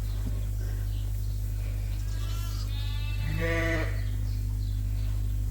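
A sheep bleats once, a wavering call about two to four seconds in, over a steady low hum.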